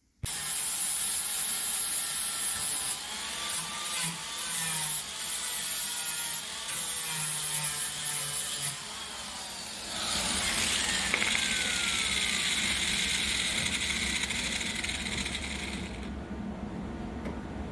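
Power cutting tool slicing through rusted automotive sheet metal, a harsh hiss that starts suddenly and runs on with a wavering motor whine. Near the end the high cutting hiss stops, leaving a lower steady hum.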